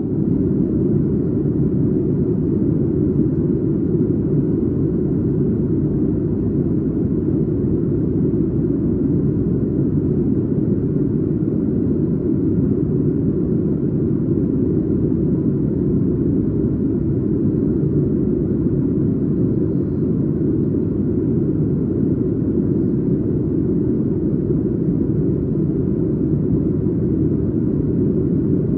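Steady low rumble inside the cabin of a Boeing 737 MAX 8 in flight, heard from a window seat just behind the wing: the CFM LEAP-1B engines and the airflow, unchanging throughout.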